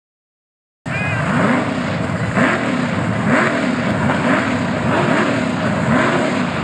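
A race car engine running loud, its pitch rising and falling about once a second. It starts abruptly about a second in, after silence.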